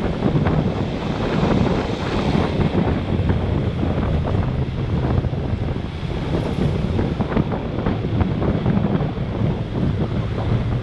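Steady wind rush over an action camera's microphone on a moving motorbike, with the motorbike's engine and passing traffic running underneath.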